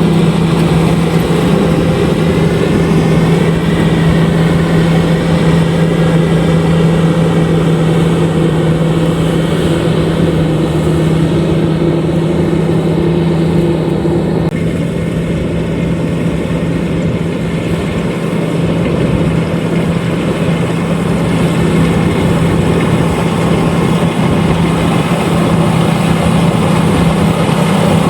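LOVOL RG130EVO combine harvester running steadily, its engine holding a constant low hum under the dense clatter and rush of the harvesting machinery. About halfway through, a higher hum drops out and the sound shifts slightly, then carries on steadily.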